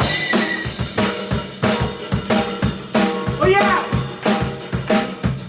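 Live rock band playing a steady driving beat, with the drum kit to the fore: snare and bass drum hitting evenly, and a cymbal crash at the start. Bass and guitar notes sound under the drums, with a short bending guitar figure about three and a half seconds in.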